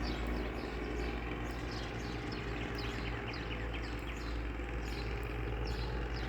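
Steady drone of a small aircraft engine, with songbirds chirping over it, including a run of quick falling notes around the middle.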